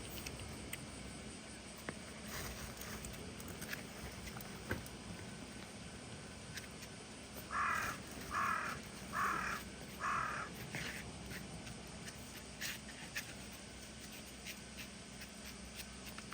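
A crow cawing four times, about a second apart, over a faint steady outdoor background.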